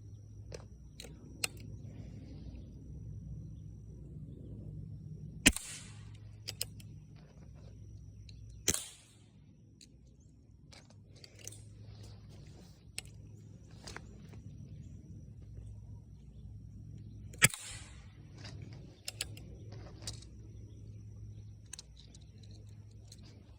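Three gunshots a few seconds apart, the second with a longer ringing tail, among lighter clicks over a steady low background hum.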